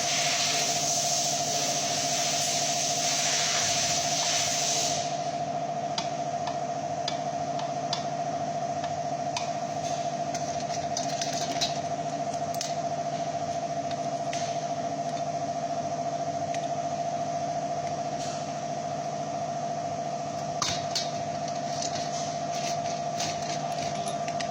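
Light metallic clicks and taps of small engine valvetrain parts being handled and fitted over a steady hum. A high hiss fills the first five seconds and stops abruptly.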